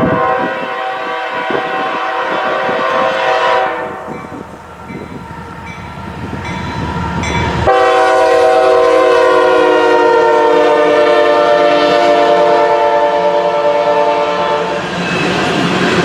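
BNSF diesel locomotive's air horn sounding over the rumble of the passing train. There is a long blast at the start, then about halfway through a second, louder long blast that sags slightly in pitch as it holds.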